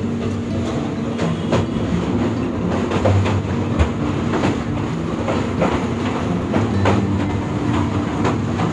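Passenger train running across a steel truss railway bridge, heard from the side of the moving coach: a steady rumble and clatter with sharp wheel clacks over the rail joints about twice a second.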